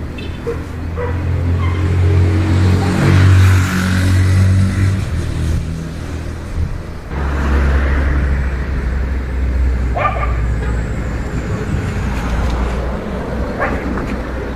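Heavy vehicle engine running loud, pulling harder from about two to five seconds in. It drops off near seven seconds, then picks up again at a lower pitch.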